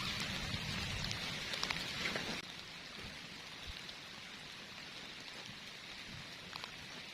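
Heavy rain falling steadily, with individual drops ticking close by; the rain noise drops suddenly to a softer level about two and a half seconds in.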